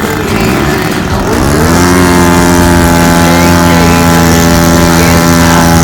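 RC model airplane's engine running. About a second and a half in it rises in pitch, then holds a steady, loud high note.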